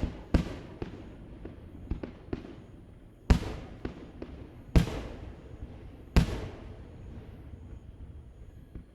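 Aerial fireworks shells bursting: sharp bangs, the loudest three about a second and a half apart, each trailing off in a long echo, with smaller pops between them. The bursts die down near the end.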